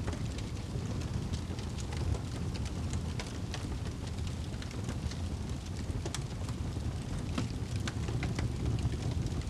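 Wood fire crackling, with many short sharp pops scattered irregularly over a steady low rumble.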